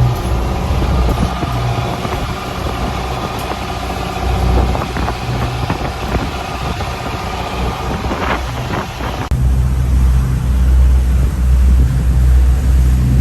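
Motor yacht's engines droning steadily while loose gear in the cabin knocks and clatters as the boat rolls in rough seas. The clatter is thickest in the middle. About two-thirds of the way through, the sound changes abruptly: the high end falls away and the low engine drone becomes stronger.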